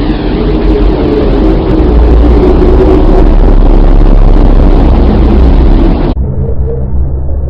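Loud, deep, steady rumble of a 'planet sound', a space recording turned into audio, with a faint steady hum in it during the first few seconds. About six seconds in it switches abruptly to a duller, more muffled rumble.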